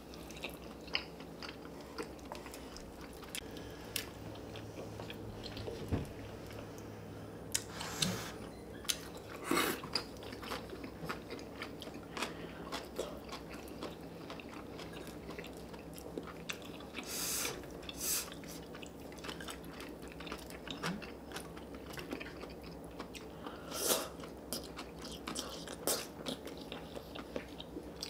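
Two people eating spicy stir-fried chicken dakgalbi with rice cakes and melted cheese: close, wet chewing and biting with many small clicks, and a few louder, longer mouth sounds about eight, ten, seventeen and twenty-four seconds in.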